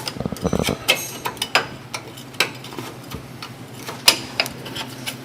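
Metal hand tools clicking and scraping at irregular intervals while old grease is cleaned out of the wheel-bearing hub.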